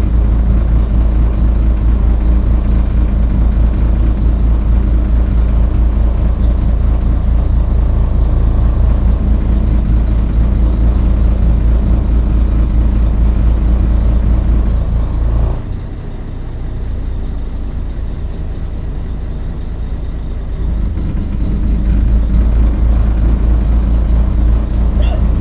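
Scania L113CRL bus's 11-litre six-cylinder diesel running steadily under way. Past the middle its sound drops off for about five seconds, then picks up again as the bus pulls away.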